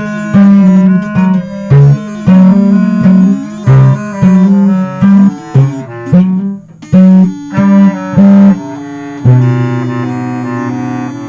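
Small band playing instrumental music: a low line of short, loud notes with gaps between them, over sustained higher tones. About nine seconds in, a long held low note takes over and the playing fades slightly.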